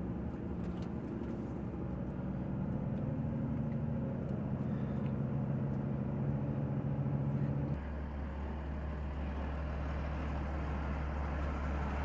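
Diesel engine of a heavy timber truck pulling under load as it climbs out of a soft, muddy field, its note rising slightly. About eight seconds in it drops suddenly to a lower, steady note as the load comes off.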